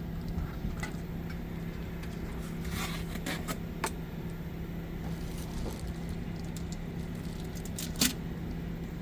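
Scattered metallic clinks and scraping from handling an oil filter and tools, over a steady low hum. A sharp clink about eight seconds in is the loudest.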